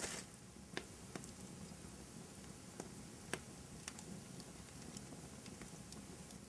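Wood fire burning in a fireplace: a low steady hiss of flames with a short burst of crackling at the start, then scattered single pops and snaps, the sharpest about three seconds in.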